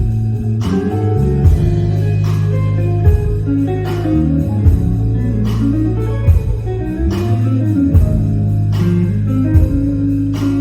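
Live band playing an instrumental passage: a guitar melody over held bass notes, with drum hits about every second and a half.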